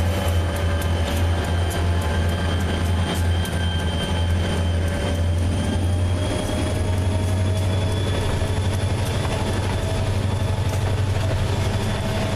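Diesel-hauled freight train running: a steady deep engine drone, with a faint high whine that rises slightly in pitch from about halfway through.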